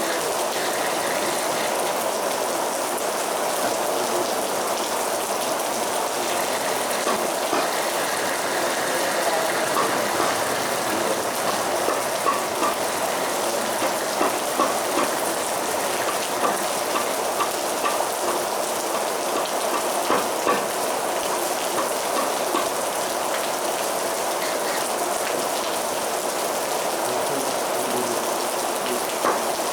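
Heavy rain falling steadily, with many separate drops ticking sharply against a hard surface through the constant hiss.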